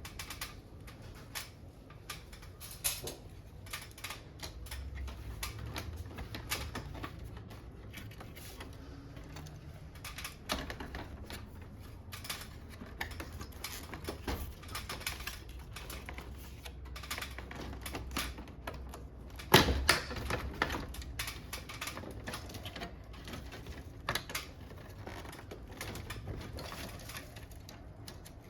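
Irregular clicks and knocks of plastic parts and tools being handled while a wall-mounted air conditioner is taken apart, with one sharper, louder knock about two-thirds of the way through.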